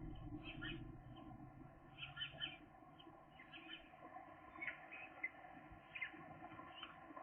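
Seagull chicks peeping: a string of short, high calls, some in quick pairs, about one or two a second.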